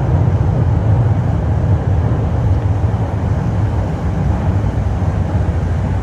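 Moscow metro train running between stations, heard from inside the carriage: a steady low rumble.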